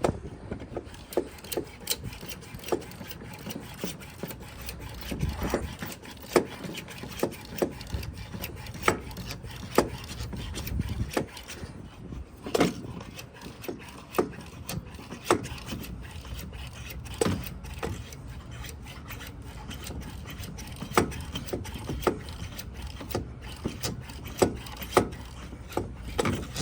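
Hand pump of a pressure brake bleeder being pumped up to pressure: repeated strokes with a sharp knock roughly once a second and a rubbing sound between them.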